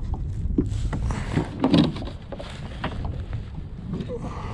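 Wind rumble on a chest-mounted camera's microphone, with scattered knocks and rustles of movement in a kayak; the loudest knock comes a little under two seconds in.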